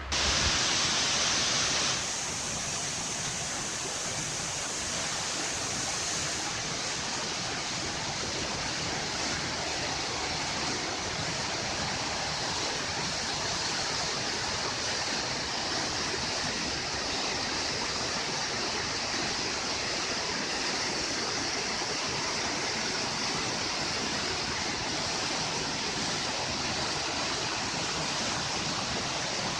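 Waterfall rushing: a steady, even roar of falling water, a little louder for the first two seconds.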